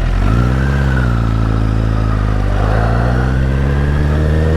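Honda CBR1000RR Fireblade's 998 cc inline-four, through a LeoVince aftermarket exhaust, pulling away in first gear: the revs rise a little about half a second in, then hold fairly steady at low revs with a slight dip and slow climb.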